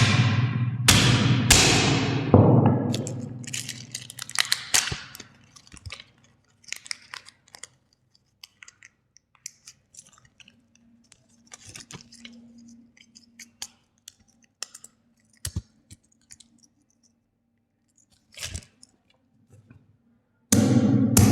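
A few loud crunching hits with ringing tails in the first few seconds, then scattered small crackles and clicks of plastic toys or packaging being handled, and another loud hit at the very end.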